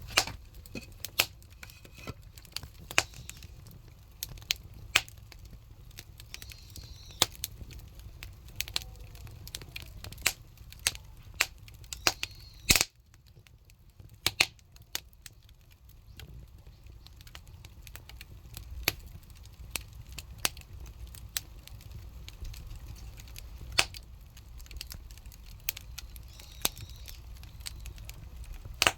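Firewood burning in a traditional Korean earthen cookstove (buttumak): irregular sharp crackles and pops over a low steady rumble of the fire, with one loudest crack about thirteen seconds in.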